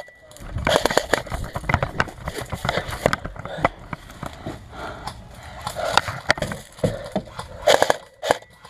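Airsoft guns firing irregular single shots: sharp clicks scattered through, with a quick cluster of clicks near the end.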